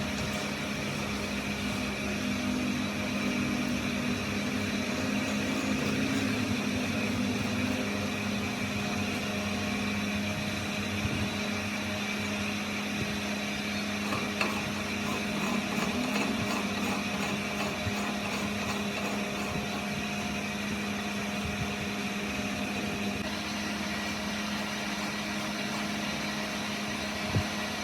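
A workshop machine running steadily: a constant motor hum with an even hiss over it. A sharp tick comes near the end.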